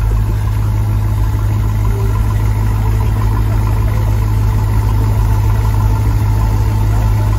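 Supercharged V8 of a Jeep Grand Cherokee idling steadily with the hood open, a constant low engine hum with a faint steady higher tone over it.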